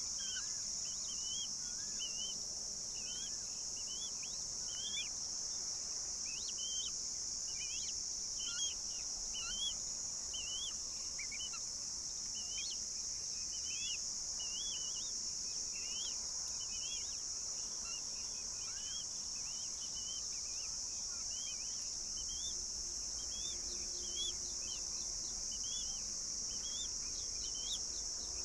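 Steady high-pitched insect drone, like crickets or cicadas, with short bird chirps repeating about once or twice a second.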